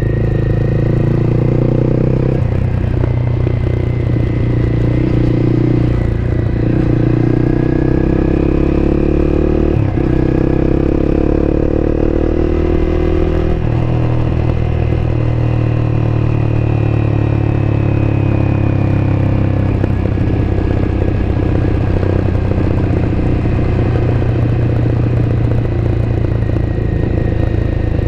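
Honda CBR250R's single-cylinder four-stroke engine running under way, recorded on board the motorcycle. The engine note rises and falls gently, with short breaks in it about two and a half, ten and thirteen and a half seconds in.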